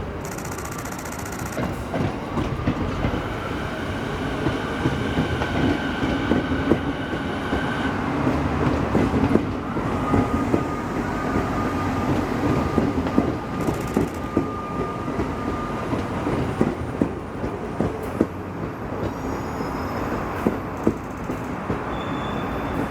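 A JR East E217 series electric train runs slowly past, its wheels clacking over rail joints and points, with a thin squeal from the wheels at times.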